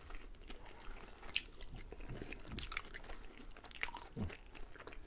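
Close-miked chewing of french fries and a shawarma wrap, with a few sharp wet mouth clicks spread across it.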